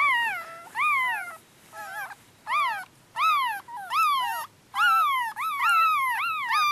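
Newborn teacup poodle puppies crying: a string of high, thin squeals, each rising then falling in pitch, spaced about a second apart at first and coming closer together in the second half. They are crying for their mother.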